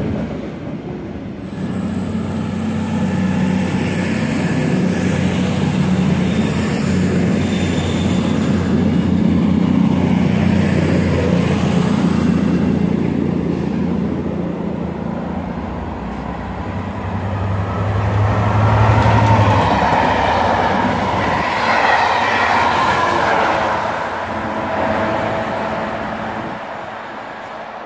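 Freight train of wagons loaded with concrete sleepers rolling past with a steady rumble and a thin, high wheel squeal over the first half. Later a diesel locomotive approaches, its engine note swelling as it draws near.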